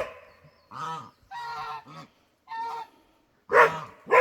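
Domestic geese honking: about five separate honks with short pauses between them, the loudest near the end.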